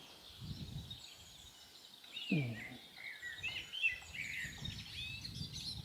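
Small birds chirping and twittering over a low outdoor rumble, the chirps coming thick from about two seconds in. A brief low falling sound about two seconds in is the loudest moment.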